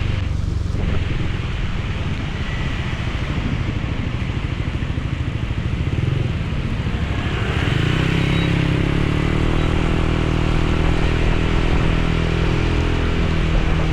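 Motorcycle engine running under way, mixed with a steady hiss of rain and rushing air. About halfway through, the engine note becomes clearer, rises slightly and gets a little louder, as if the rider is accelerating.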